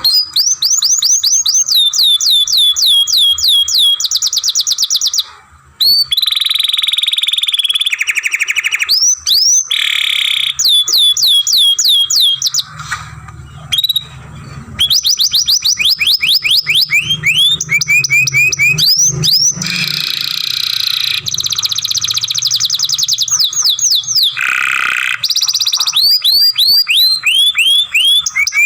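Domestic canary singing a long, continuous song: rapid rolls of repeated falling whistled notes alternating with buzzy trills, broken by a brief pause about five seconds in.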